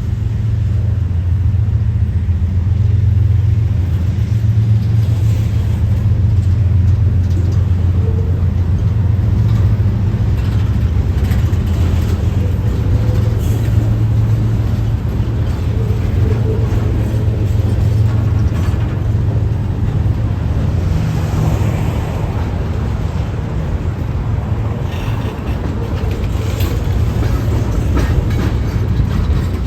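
Freight train rolling past: a loud, steady low rumble of cars on the rails, with a few faint higher clicks now and then.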